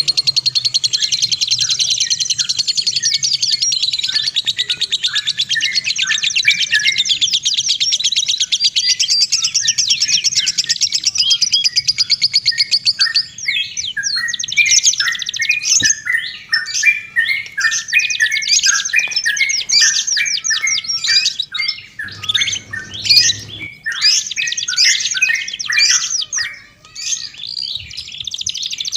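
Songbirds singing loudly and densely in high-pitched chirps. The first half is a fast, nearly unbroken trill; the second half breaks into separate chirps and short warbled phrases.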